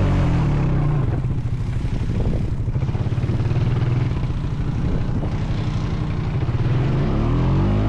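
Honda Foreman 520 ATV's single-cylinder engine running steadily under load while towing another ATV, its pitch rising near the end as the throttle opens.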